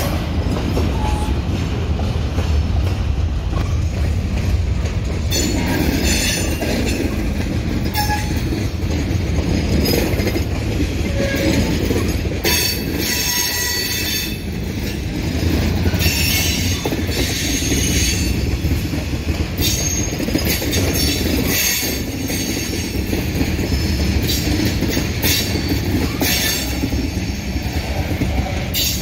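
Freight cars, a boxcar and loaded tank cars, rolling slowly past with a steady low rumble of wheels on rail. From about five seconds in, high-pitched wheel squeal comes and goes every second or two.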